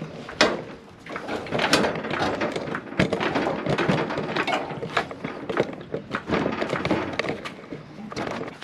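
Repeated metal knocks, clunks and scraping as an engine on a jack is worked onto the transaxle's bell-housing studs.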